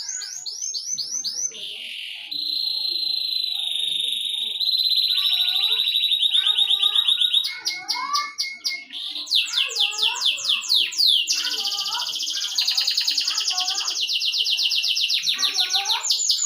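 A songbird singing one long, unbroken song of fast trills and rapidly repeated notes, switching to a new phrase every second or two.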